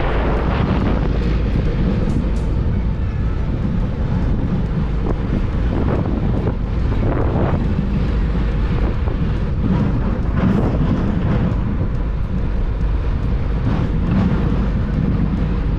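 Wind buffeting the microphone, a steady low rumble with no let-up.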